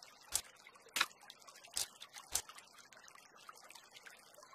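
A kingfisher beats a stickleback against a branch, making four sharp knocks in the first two and a half seconds, spaced roughly half a second to a second apart.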